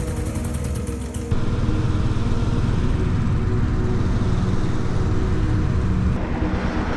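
Custom Royal Enfield scrambler motorcycle running on the move, a steady engine note with road and wind noise. The sound changes abruptly about a second in, as if cut between two takes.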